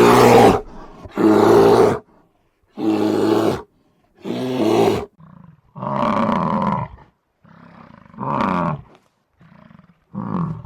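A large animal calling over and over: about seven loud, harsh calls, each under a second long, coming roughly every second and a half with silence between them; the last call is shorter.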